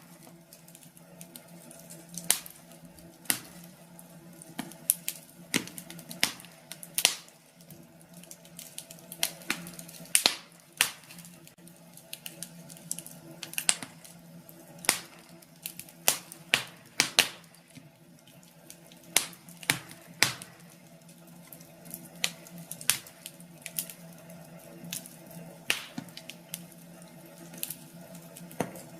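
Wood fire crackling in a fireplace: irregular sharp pops and snaps at uneven intervals over a steady low hum.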